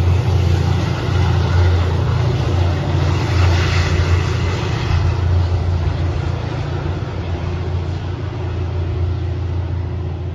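Diesel commuter rail locomotive's engine drone with rail noise as the train pulls away, a steady low hum fading slowly as it recedes. A brief hissing swell comes about four seconds in.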